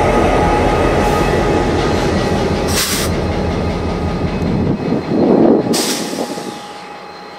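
VIA Rail passenger train rolling past at close range: a steady, loud rumble of coaches on the rails. The F40PH-2 diesel locomotive then goes by and the sound falls away as the train pulls off. Two short hissing bursts come about three seconds apart.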